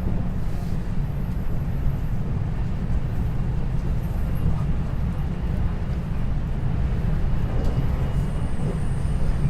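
Interior running sound of a 521-series electric multiple unit's motor car between stations: a steady low rumble of wheels on rail and running gear.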